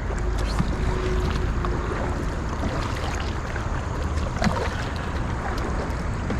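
Steady rush of fast-flowing river current around a kayak, with wind buffeting the microphone and a few faint knocks.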